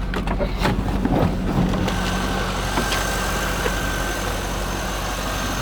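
Chevrolet LS1 5.7-litre V8 from a 1998 C5 Corvette idling steadily shortly after start-up, with a few clicks in the first second or two and a steady high whine joining about two seconds in.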